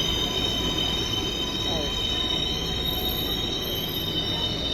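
Subway train in motion, its wheels squealing against the rails: a steady high-pitched squeal held over the rumble of the running car.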